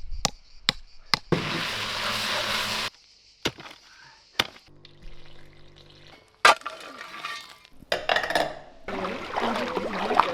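A run of short household and kitchen sounds: sharp clinks and knocks, a hiss of about a second and a half near the start, a brief steady hum in the middle, and a busier clatter of handling noise towards the end.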